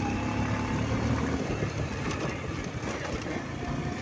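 Motorcycle running while being ridden, with road and wind noise; the engine's steady note weakens about a second and a half in.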